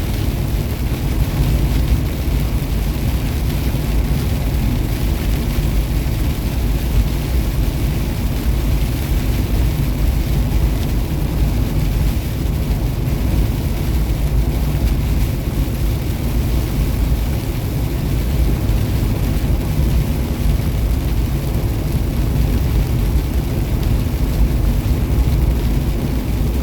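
Semi-truck cab while cruising on the highway: a steady low engine and road rumble that holds even, with no change in pace.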